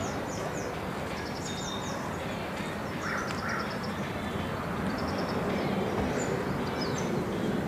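Small birds chirping in runs of short, high, falling notes over a steady low outdoor background noise, with two short lower calls about three seconds in.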